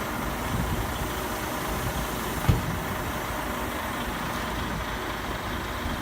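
Heavy vehicle's engine running steadily at low revs, with one short thump about two and a half seconds in.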